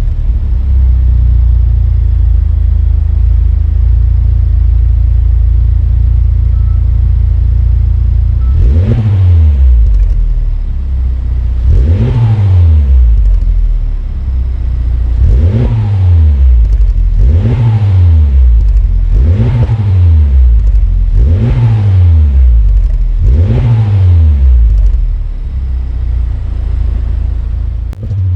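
Honda Civic Type R FL5's 2.0-litre turbocharged four-cylinder exhaust through a Mugen single-exit muffler, with a thick, deep note. It idles steadily, then is blipped seven times, each rev rising and falling, roughly every two to three seconds, and settles back to idle.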